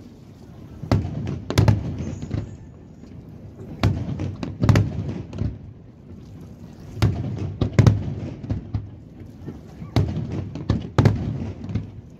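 Aerial firework shells bursting overhead, sharp bangs coming in clusters every couple of seconds over a low rolling rumble that swells and fades between them.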